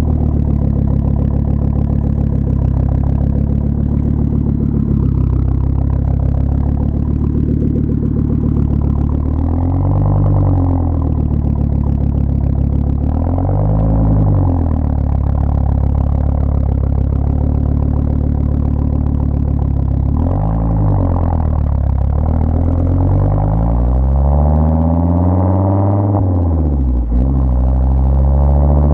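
Turbocharged 2.5-litre inline-five of a 2004 Volvo S60R idling through a custom 3-inch exhaust with a catless downpipe and two resonators. It is revved three times briefly, each rev rising and falling, then revved longer and higher near the end before dropping back sharply to idle.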